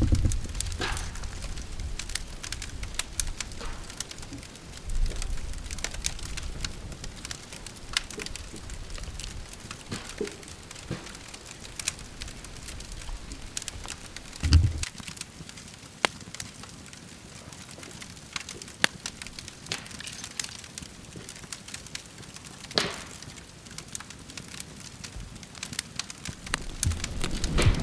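Wood campfire crackling, with irregular sharp pops and snaps scattered throughout, plus a few low thumps.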